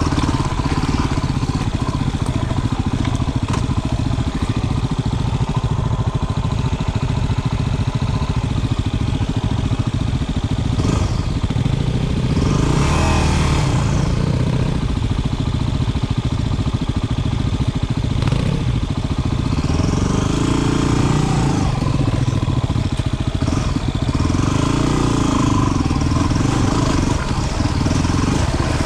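250 cc single-cylinder dual-sport motorcycle engine running on a trail ride, its pitch stepping up and down as the throttle opens and closes, with a few louder swells of noise along the way.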